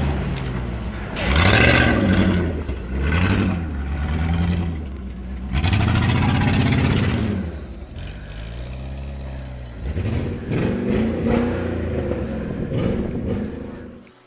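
Truck engine revved up and down over and over, each rev rising and falling in pitch, then cutting out near the end.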